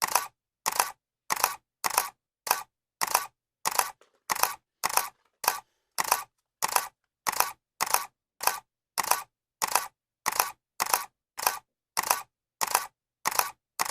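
Camera shutter clicking over and over at an even pace, a little under two clicks a second. Each click is a quick double snap.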